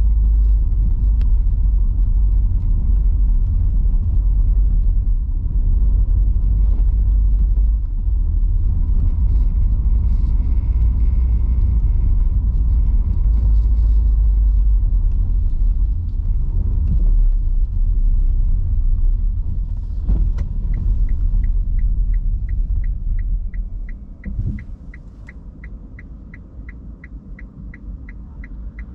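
Steady low rumble of an electric car driving on a wet road, heard from inside the cabin. About two-thirds of the way in, the turn-signal indicator starts ticking a little over twice a second, and the rumble then falls away as the car slows.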